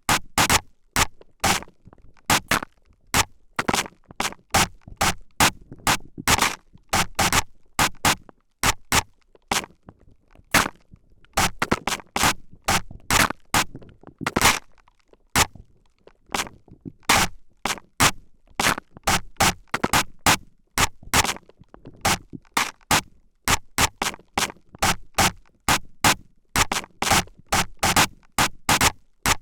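Spray bottle squirting in short, quick hissing bursts, about two or three a second in an uneven rhythm.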